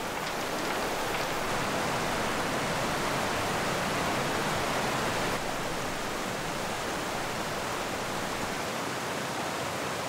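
Rushing of a mountain river in flood: a steady, even roar of fast, turbulent water, dropping slightly in level about five seconds in.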